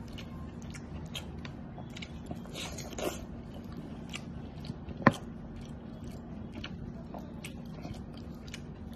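A man eating chicken curry with his fingers: chewing and lip smacks with scattered small clicks, and one sharper click about five seconds in, over a steady low hum.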